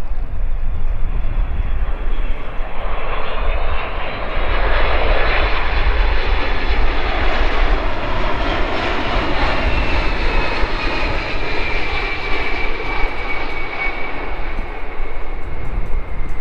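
Boeing KC-46 tanker's two turbofan engines on final approach, passing close by: the jet rush swells over a few seconds, with a high engine whine that falls slowly in pitch as the aircraft goes past. Low wind rumble on the microphone runs under it.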